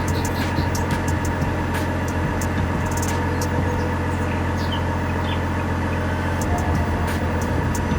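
Small model engine running steadily: a low, even hum with light scattered clicks.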